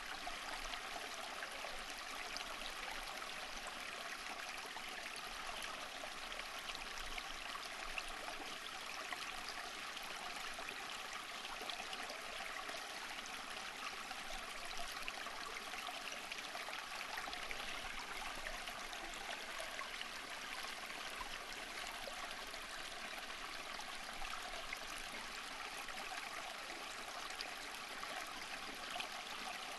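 Water running and trickling steadily, like a small stream, with fine splashing and bubbling detail.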